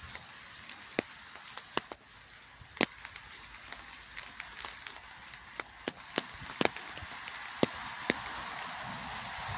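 Scattered sharp ticks at irregular intervals, about a dozen in all, over a soft steady hiss of rain. The ticks are typical of raindrops or drips striking a hard surface close to the microphone.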